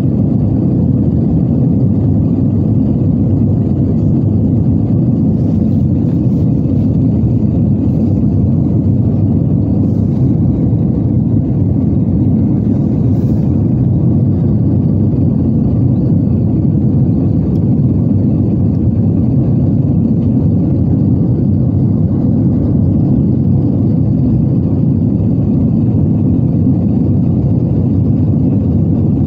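Steady cabin noise of an Airbus A320-214 in flight: an even, low rumble of airflow and its CFM56 jet engines heard from inside the cabin, with a faint steady hum and a few faint ticks.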